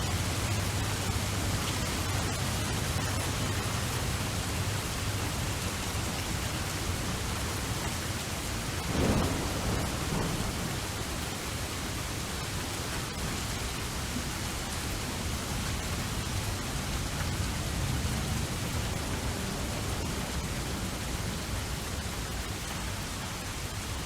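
Steady rain falling, with a short rumble of thunder about nine seconds in.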